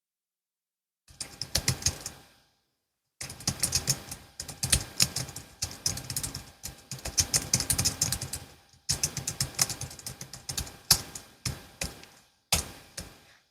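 Typing on a Logitech MX Keys S, a low-profile scissor-switch keyboard: quick runs of soft key clicks that start about a second in, broken by a few short pauses.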